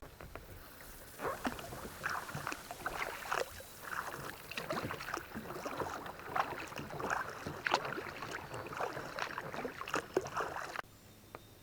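Kayak paddle strokes splashing and dripping in lake water, an uneven run of splashes that stops abruptly near the end.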